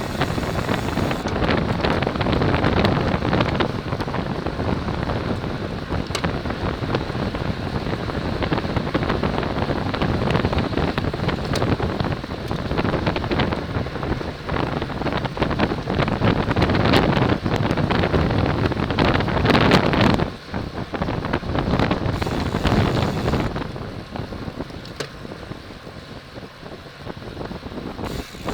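Wind rushing over the microphone of a camera on a racing bicycle as it rides at speed, a steady buffeting roar. It drops away briefly about two-thirds of the way through and runs quieter near the end.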